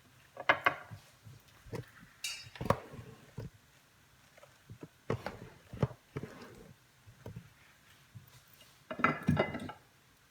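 Seafood being set out by hand on a serving platter: scattered light knocks and clinks against the dish at irregular intervals, with a busier patch of handling about nine seconds in.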